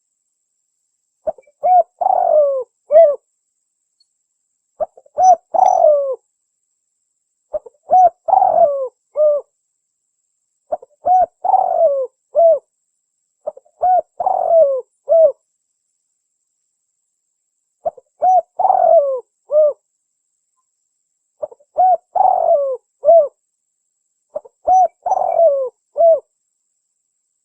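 Spotted dove (tekukur) cooing, played as a lure recording: a phrase of three or four coos, repeated about every three seconds, with silence between phrases.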